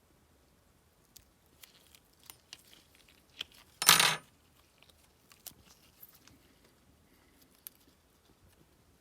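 Reflective tape being handled and pressed over a phone's camera lenses: scattered small clicks and taps, and one short, loud rip of tape about four seconds in.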